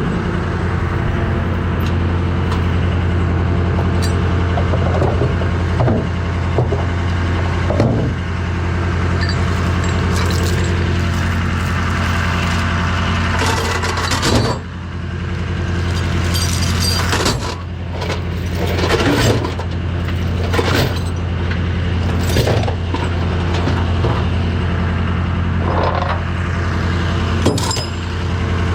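Heavy engine running steadily at a constant speed, with scattered clanks and knocks over it.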